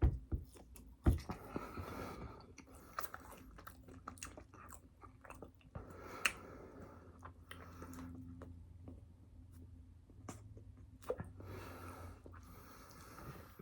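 Close-miked chewing and biting of food, a mukbang eating sound, with a few sharp mouth clicks and smacks, the loudest about a second in.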